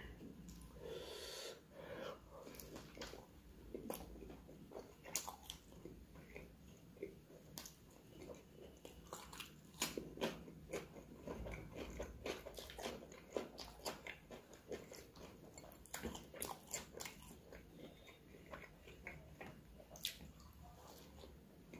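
Close-miked chewing and biting of puri with curry: irregular wet mouth clicks and smacks.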